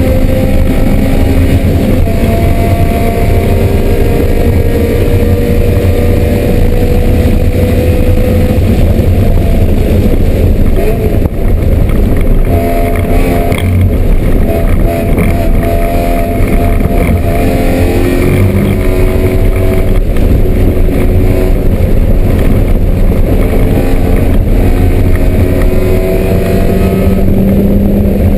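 BMW M3 race car engine running hard on track, its pitch climbing steadily and dropping back several times as it changes gear.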